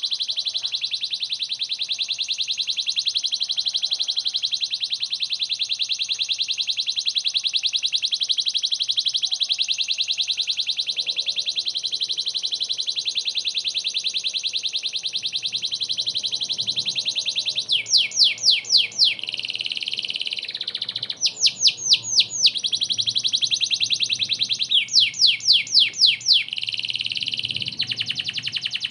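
Canary singing: a long, rapid, high trill for roughly the first seventeen seconds, then several short runs of quick falling notes.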